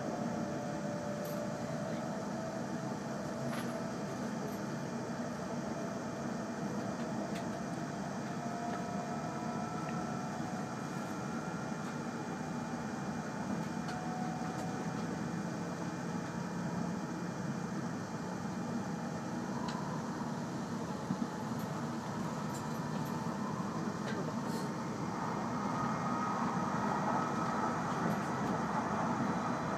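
Cabin noise of an E5-series Shinkansen running at speed: a steady rumble and rush of rolling noise. Under it a faint whine slowly rises in pitch as the train gathers speed, and the noise grows a little louder near the end.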